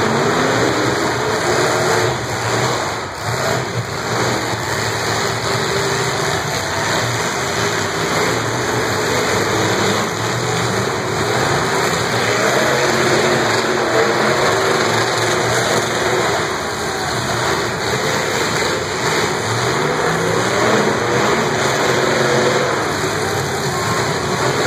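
Several demolition derby cars' engines running and revving together, pitch rising and falling as they rev, with a few sharp bangs in the first few seconds.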